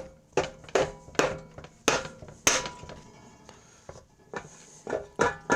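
Hammer blows on the sump (crankcase) cover of a Honda GX140 engine to break it loose from its dowels: a run of sharp knocks, several of them ringing briefly, with a few softer taps near the end.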